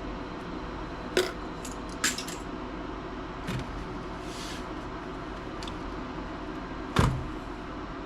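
Sharp clicks and clacks of laptop parts and tools being handled during disassembly: two about one and two seconds in, then a louder knock near the end, over a steady low hum.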